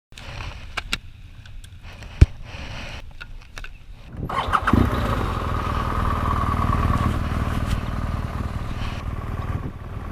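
Motorcycle engine started about four seconds in, after a few sharp clicks and knocks, then running steadily.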